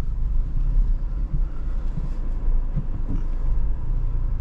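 Honda Civic Type R's turbocharged 2.0-litre four-cylinder idling, a steady low rumble heard from inside the cabin.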